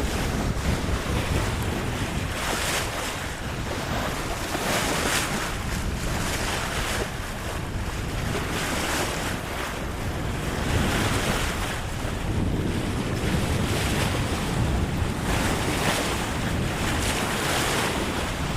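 Sea rushing along the hull of a sailing yacht under sail on a beam reach. Hissing surges of water come every few seconds as waves pass, over a steady low rumble of wind buffeting the microphone.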